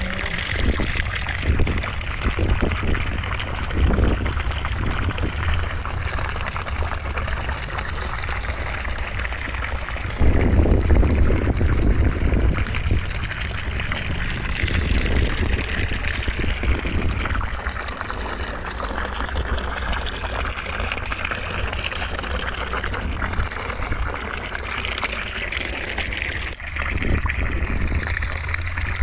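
Steady rushing noise of running water, a dense hiss with slowly shifting tone over a low rumble, played as continuous white noise. It swells briefly about ten seconds in and dips for an instant near the end.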